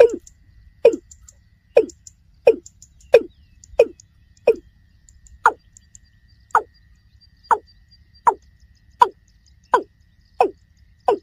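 Watercock calling: a long, regular series of short, hollow notes, each dropping in pitch, about one and a half a second.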